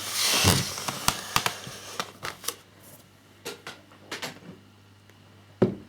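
Small model parts and packaging being handled and set down on a table: a brief rustle at first, then scattered light clicks and taps, with a louder knock near the end.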